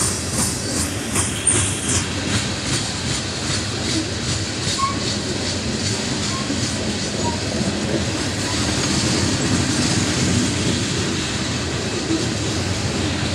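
Loaded coal hopper cars rolling past steadily, steel wheels on the rails making a continuous rumble and a rhythmic clickety-clack over the rail joints, most distinct in the first few seconds.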